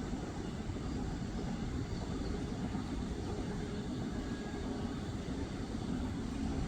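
Steady low rumbling background noise with no distinct event in it.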